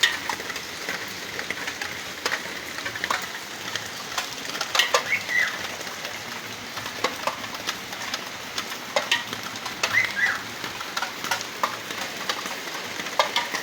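Heavy rain falling steadily, with drops hitting surfaces in irregular sharp ticks and splashes. A bird chirps briefly about five seconds in and again about ten seconds in.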